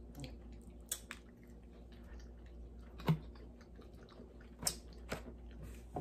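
Quiet chewing of a white chocolate cereal bar with crunchy cereal bits, broken by a handful of short sharp crunches or mouth clicks, the loudest about three seconds in.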